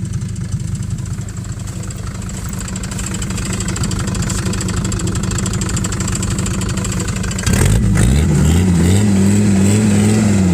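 Mercedes-Benz 300D W126 diesel engine running with a fast, even clatter, then about three-quarters of the way through revved up sharply, held, and beginning to drop back at the end.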